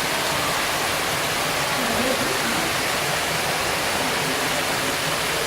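Steady rush of running water, like a small waterfall or stream feeding a fish pond.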